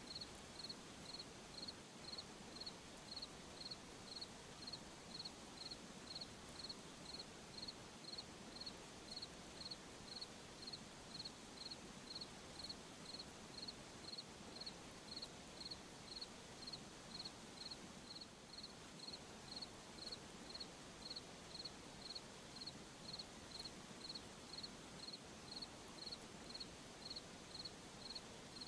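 A cricket chirping in a steady, even rhythm, about three short chirps every two seconds, over a faint steady night-time hiss.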